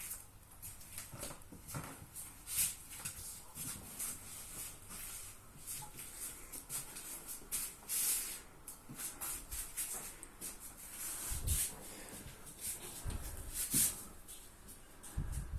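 A pet dog moving about, with many short scratching and rustling noises and a few soft low thumps.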